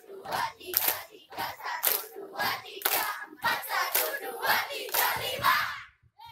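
A group of children shouting together to a steady beat, about two shouts a second, with hand claps; it stops abruptly shortly before the end.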